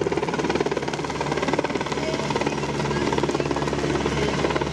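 Czech Air Force search-and-rescue helicopter in flight, its turbines running with a steady rapid chop from the rotor blades.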